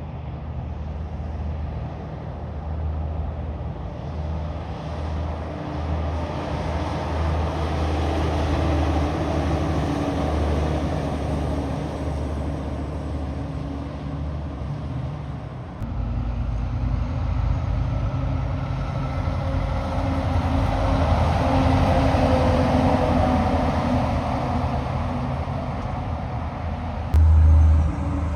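Heavy trucks driving past: diesel engines running with tyre and road noise that swells and eases as they go by. The sound changes abruptly about halfway through, and a louder low rumble comes in near the end.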